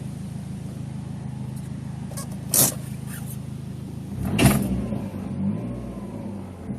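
Dodge Neon SRT-4's turbocharged four-cylinder idling with a steady hum. A sharp click comes a little past two seconds in, then a louder clunk about four seconds in, after which the engine note sinks and wavers. These are noises from a failing T850 manual transmission, which the owner puts down to loose synchros and worn shift forks, and possibly the clutch release fork and throwout bearing.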